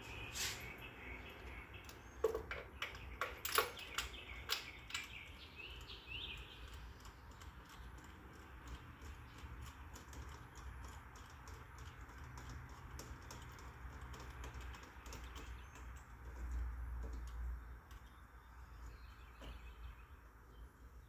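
A series of sharp clicks and taps, loudest and closest together about two to five seconds in and sparser afterwards, with birds chirping now and then.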